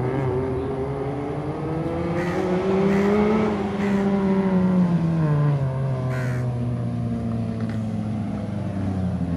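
Honda Jazz GE rally car's four-cylinder petrol engine under throttle. Its note climbs for about three seconds, drops back around four to five seconds in, then holds steady.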